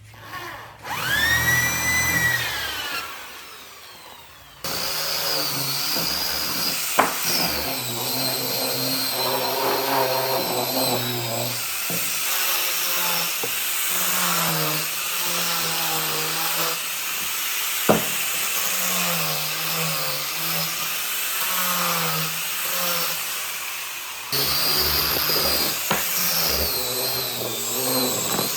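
Electric power tool working wood. It spins up and winds down briefly, then runs steadily under load with a wavering pitch, cuts out for a moment near the end and starts again.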